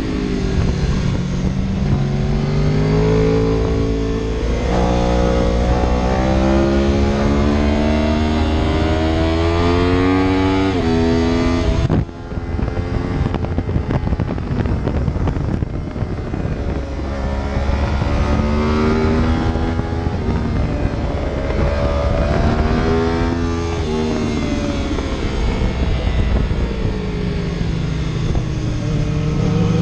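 Vehicle engine under hard acceleration: its pitch climbs and drops back repeatedly, like upshifts through the gears. It eases off for a few seconds around the middle, then climbs again.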